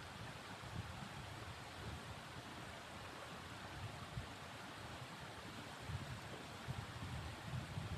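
Steady blizzard wind hissing, with a gusty low rumble of wind buffeting the microphone that grows stronger near the end.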